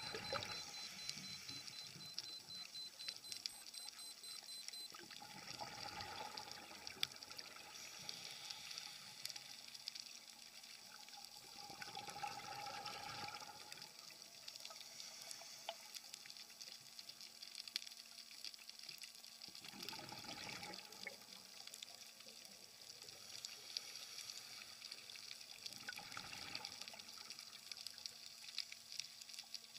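Scuba diver's exhaled air bubbling out of the regulator underwater, in swells about every six to seven seconds with each breath, over a steady underwater hiss.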